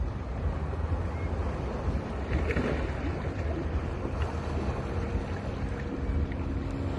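Sea surf washing onto a beach, with a wave surging a little over two seconds in, and wind rumbling on the microphone.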